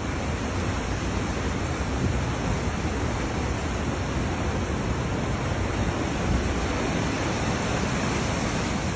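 Steady rushing noise of fast-flowing floodwater, with a deep rumble underneath.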